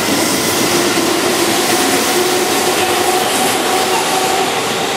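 Keihan electric commuter train running past a station platform at speed: a loud, steady rush of wheels on rail and passing cars.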